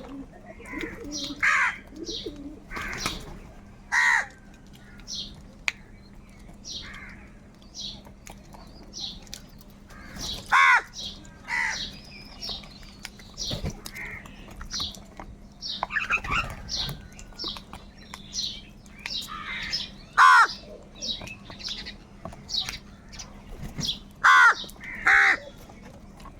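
Crows cawing: loud, harsh calls repeated every few seconds, the loudest about ten, twenty and twenty-four seconds in, with many short high chirps between them.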